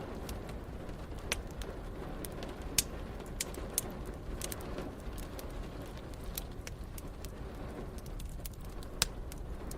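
Wood fire crackling, with irregular sharp pops, the loudest about three seconds in and again near the end, over a steady bed of rain and low rumble.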